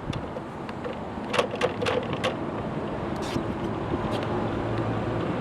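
Takisawa TSL-550 engine lathe running with a steady hum, with four sharp clicks in quick succession between about one and a half and two and a half seconds in, then a brief hiss.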